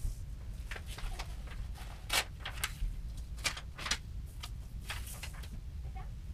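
A series of irregular sharp clicks and light knocks over a steady low rumble.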